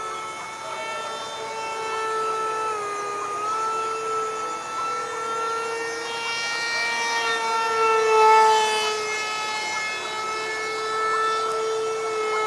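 A steady, fairly high-pitched mechanical whine, like a small motor or power tool running. Its pitch dips briefly about three seconds in.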